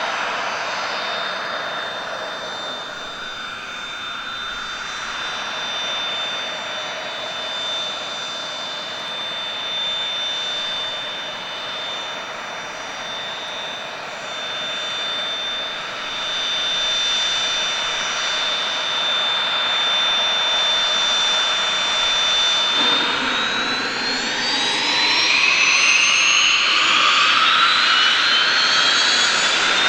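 Cessna Citation CJ2's twin Williams FJ44 turbofans at takeoff power, a steady high whine over a broad jet roar. About three-quarters of the way through, the whine rises in pitch and the roar grows louder.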